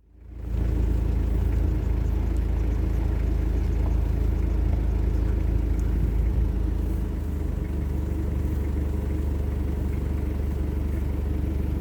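A car driving at a steady speed: a steady low rumble of engine and road noise that fades in over the first half second.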